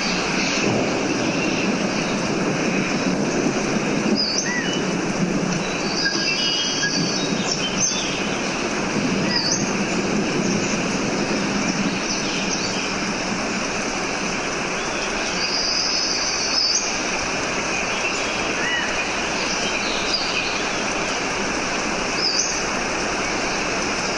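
Steady rushing water, with short bird chirps and calls scattered over it every second or two.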